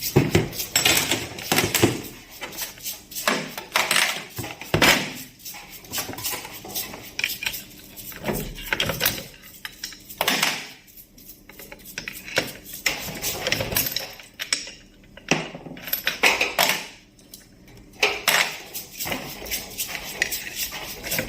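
Metal tools and small steel parts clinking and clattering irregularly during hands-on work on a tractor diesel injection pump.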